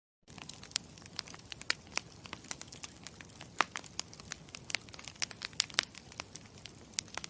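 Campfire crackling: a steady low hiss with irregular sharp pops and snaps, several a second.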